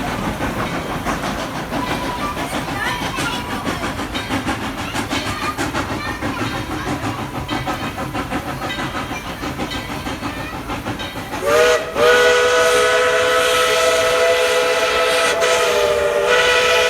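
Narrow-gauge steam locomotive running, with steam hiss and a rhythmic clatter. About eleven seconds in, its chime whistle gives a short blast, then a long held chord of several notes to the end.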